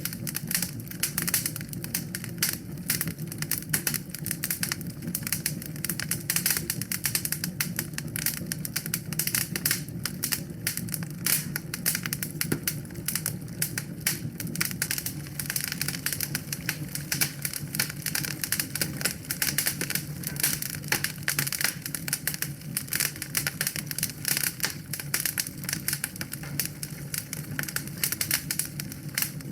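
Wood fire in a fireplace crackling, with a dense, irregular run of small pops and snaps over a steady low rumble.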